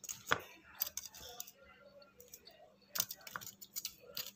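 Chewing a crisp-skinned fried cassava fritter: irregular crunches and crackles, a few of them sharper.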